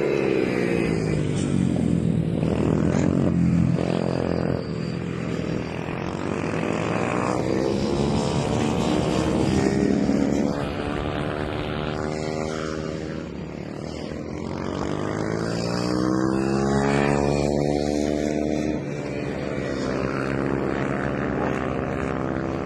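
Small 110cc mini motorcycle engines racing past, revving hard. Their pitch rises and falls over and over as the bikes accelerate and shut off through the corners.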